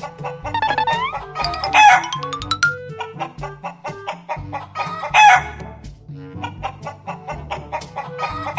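Bouncy background music with a steady bass pattern, overlaid with chicken clucks and rooster crows as sound effects. A loud call comes about every three and a half seconds, near two seconds in, again past five seconds, and at the very end, and there are rising glides in the first three seconds.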